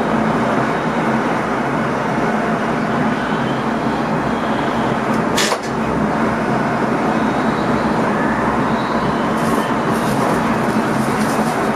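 Running noise inside the driver's cab of an NS ICM electric multiple unit on the move: a steady rumble and hiss of wheels on track over a steady low hum. There is a single sharp click about five and a half seconds in, and light ticking near the end.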